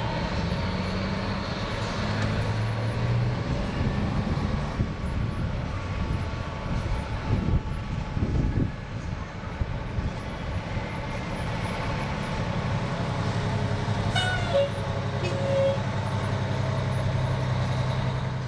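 Fire truck's diesel engine running steadily with a low hum.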